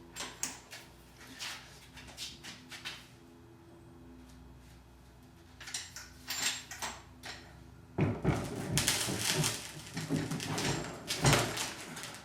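Handling a kayak cart and an Ocean Kayak Trident 13 while setting the wheels under the hull: scattered clicks and knocks at first, then a busy run of loud clunks and scraping from about two-thirds of the way in. A faint steady hum lies underneath.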